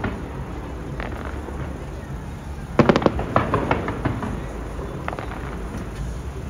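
Fireworks exploding: a single bang about a second in, then a rapid cluster of sharp cracks and bangs from about three seconds in, over a steady low rumble.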